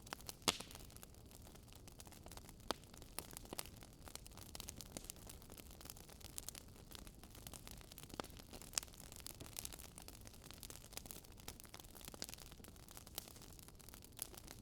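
Wood fire crackling: irregular sharp pops and snaps over a faint steady hiss, with one louder pop about half a second in.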